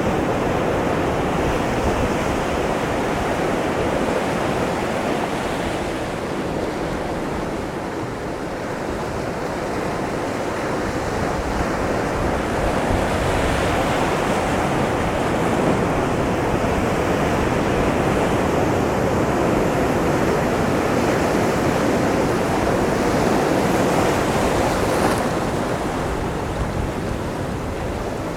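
Ocean waves breaking against a rocky shoreline: a continuous rushing wash of surf that eases off a little about eight seconds in, swells again, and eases near the end.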